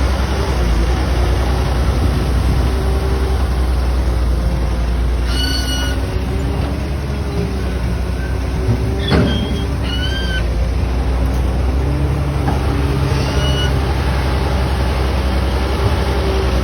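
Heavy diesel vehicle engine running steadily with a low rumble. A few short high-pitched squeaks sound over it, about a third of the way in and twice more later.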